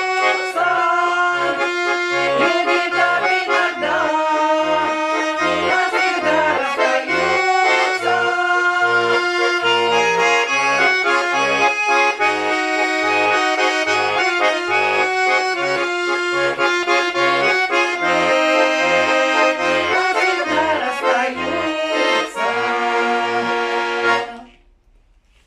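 Accordion playing a folk-style tune with a steady oom-pah beat of bass notes under held melody chords, stopping abruptly about a second before the end.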